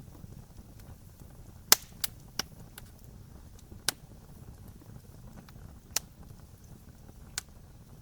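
Wood bonfire burning with a low steady rush and sharp, irregular crackling pops, the loudest about two seconds in.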